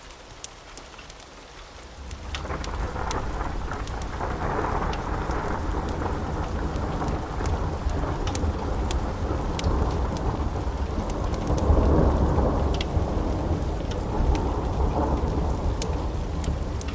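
Long rolling thunder rumble that builds about two seconds in, swells to its loudest about twelve seconds in and keeps rumbling, over steady rain. Sharp crackles from a wood fire pop throughout.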